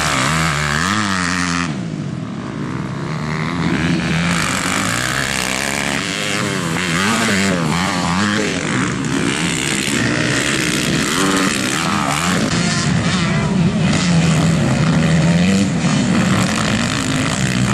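Several motocross bikes' engines racing on the track, revving up and down through the gears so their pitch keeps rising and falling and overlapping, with a brief lull about two seconds in.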